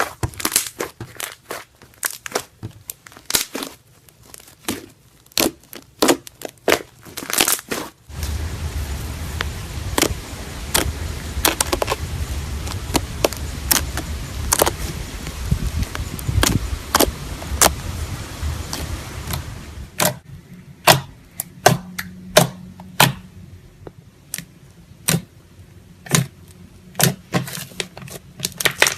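Slime being squished and worked by hand, giving a quick, irregular run of sharp pops and crackles. About a third of the way in a steady low rumble starts under the pops, and it stops about two-thirds of the way through.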